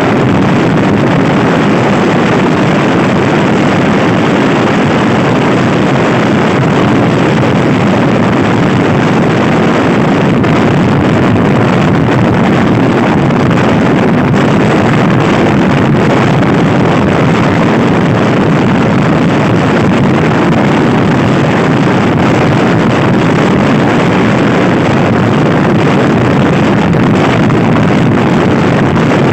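Loud, steady wind buffeting on the microphone of a fast-moving Honda Scoopy-i scooter.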